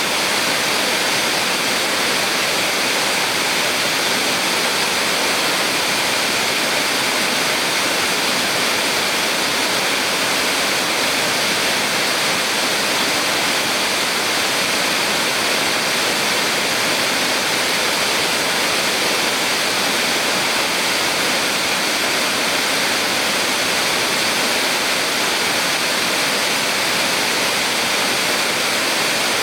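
Small waterfall on a mountain stream, water pouring and splashing in a steady, unbroken rush.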